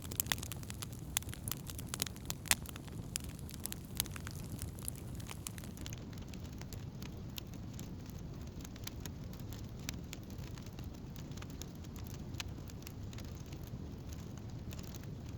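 Wood campfire burning: sharp crackles and pops, thick in the first few seconds and sparser after, over a steady low rumble.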